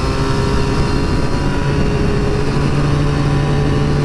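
Honda motorcycle engine running at road speed under heavy wind noise, its pitch stepping up slightly about one and a half seconds in.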